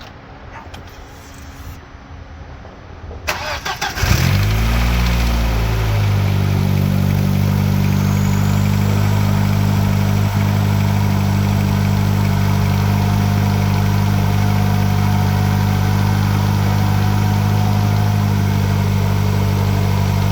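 VW Passat 1.8T turbocharged four-cylinder engine, freshly fitted with a high-flow exhaust manifold, cranking briefly about three seconds in and catching straight away. It flares up in revs for a couple of seconds, then settles into a steady idle.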